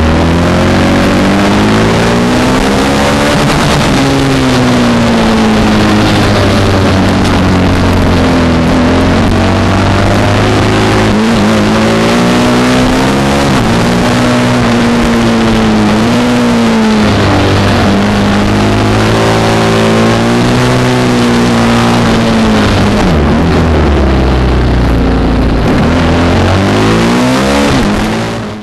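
Motorcycle engine under hard riding on a race circuit. Its pitch climbs again and again as it accelerates and drops as the throttle is rolled off, over a constant rush of noise.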